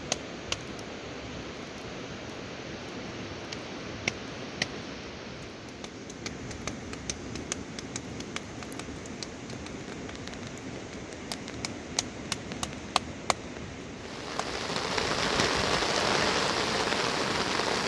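Rain falling, with many sharp single drips striking a hard surface close by. About fourteen seconds in, the rain turns much louder and fuller.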